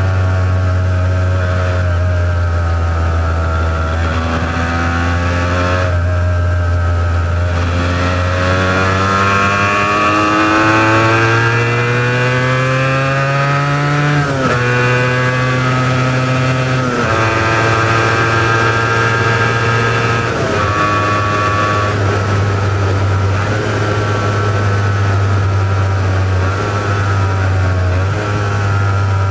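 Honda NS400R's two-stroke V3 engine through its original mufflers, pulling hard: the engine note climbs for several seconds, drops sharply at three gear changes around the middle, then holds fairly steady as the bike cruises.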